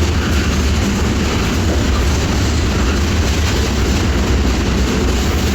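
Freight train rolling along: a steady, loud, low rumble with rattling noise that does not let up.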